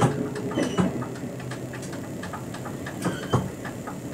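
Cab interior of an RBDe 560 "Domino" electric multiple unit rolling slowly: steady rattling and clicking, with sharper knocks at the start, just under a second in and about three seconds in, and a couple of brief high squeaks.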